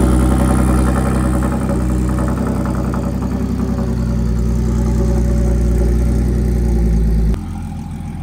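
Audi S4 B8.5's supercharged 3.0 V6 running at a steady, loud cold-start idle through a loud aftermarket exhaust, on its first cold start with new spark plugs. About seven seconds in it drops suddenly to a quieter, lower idle.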